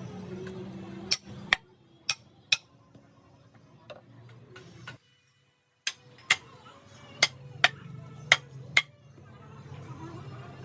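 Sharp hammer taps on wood, about ten of them, mostly in pairs about half a second apart, with a brief cut-out in the sound just before halfway.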